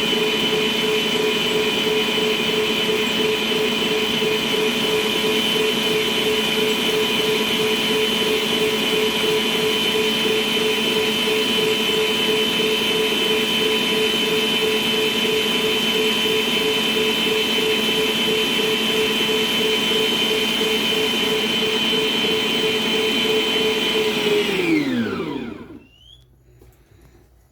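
Planetary stand mixer motor running steadily at second speed, beating cake batter with a steady whine. Near the end it is switched off and winds down, its pitch falling away over about a second and a half.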